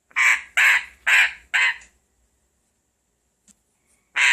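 Grey parrot squawking: four loud, harsh calls in quick succession, then another near the end.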